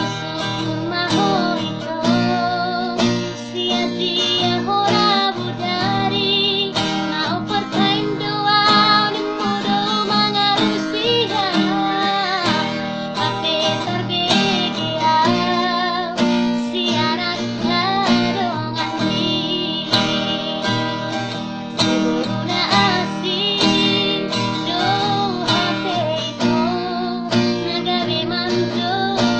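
A woman singing a song to strummed acoustic guitar accompaniment.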